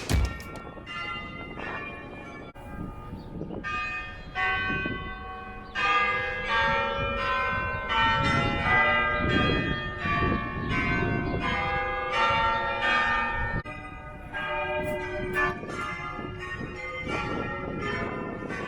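Church bells ringing, many overlapping strikes that hang on and blend together, quickening and growing louder a few seconds in, then thinning out toward the end.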